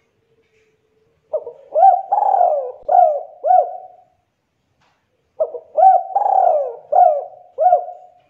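Spotted dove (tekukur) cooing: two song phrases, each a run of about five short coos with a rising-and-falling pitch. The second phrase starts about five seconds in.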